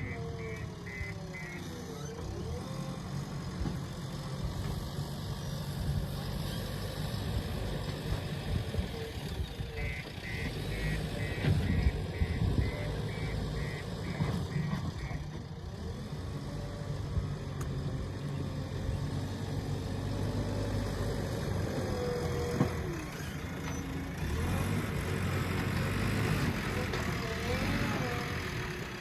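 Diesel engine of a JCB loader running steadily under work, with a reversing alarm beeping about two times a second in a run of several seconds near the middle and briefly at the very start.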